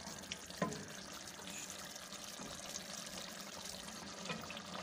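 Mutton liver and masala frying in oil in an open pressure cooker, a steady sizzle as it is stirred with a wooden spoon during the bhuna stage, with a knock of the spoon against the pot about half a second in.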